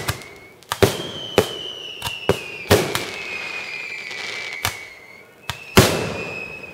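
Fireworks display: a series of sharp bangs, about eight, with long high whistles that fall slowly in pitch sounding between them. The loudest bang comes near the end.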